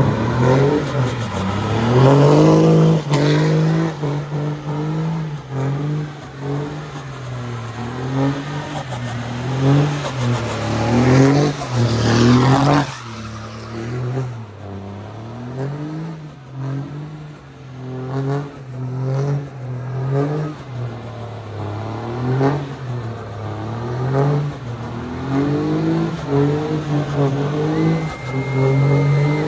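Vehicle engine held at high revs during a burnout, its pitch rising and dipping again and again as the throttle is worked, with sharp rev climbs about two seconds in and around eleven seconds in.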